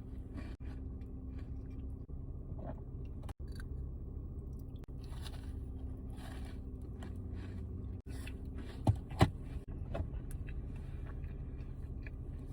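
Close-up chewing and biting of a soft milk chocolate cookie: wet mouth clicks and smacks over a steady low hum, with two sharp louder clicks about nine seconds in.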